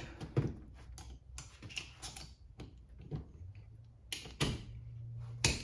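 Irregular small metallic clicks and ticks from hand tools working at the cage of a tapered roller bearing, breaking the cage apart to get the bearing off. A few sharper clicks come about four seconds in and near the end.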